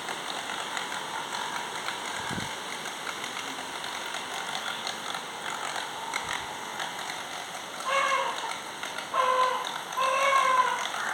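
Homemade toy motor boat running, its small propeller churning and spattering water in a steady wash. About eight seconds in, three short pitched vocal calls rise over it.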